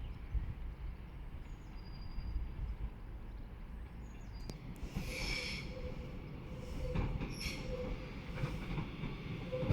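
Train moving on the rails with a steady low rumble. Its wheels give a brief high squeal about halfway through and again a couple of seconds later.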